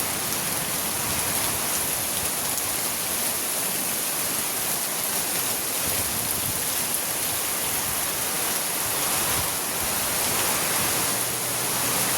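Heavy rain falling steadily from a passing storm, an even, unbroken hiss.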